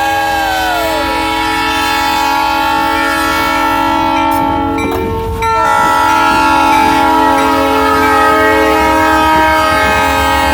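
Diesel locomotive's multi-note air horn blowing two long blasts, with a short break between them about five seconds in, over the low rumble of the train.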